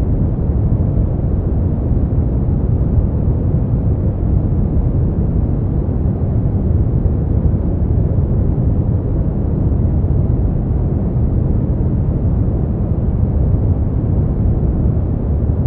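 Steady sleep-aid noise track, unchanging throughout: a deep, even noise that is mostly bass, with little hiss on top.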